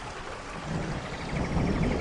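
Steady rain hiss with a low rumble of thunder building from a little under a second in.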